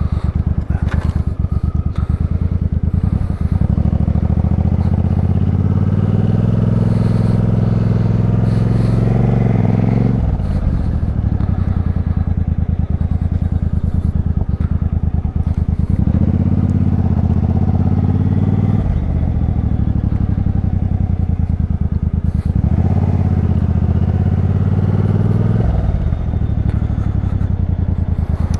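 2014 Suzuki Boulevard C50's V-twin running through an aftermarket Cobra exhaust as the bike is ridden. The engine note climbs in pitch three times under acceleration and drops sharply after each climb.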